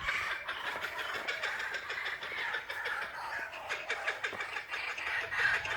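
Laughing kookaburras calling, a continuous run of harsh chattering notes.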